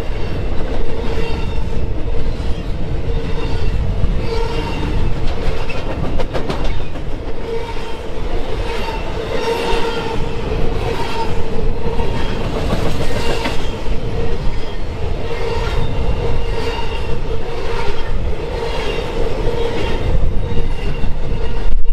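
A train's cars rolling past, the wheels clattering in a regular rhythm of roughly one beat every 0.7 seconds, with a steady ringing tone under the rumble.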